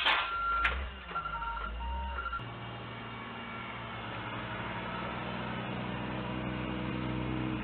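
Several short electronic beeps at two pitches, then a steady low mechanical hum, heard through a narrow, telephone-like audio band.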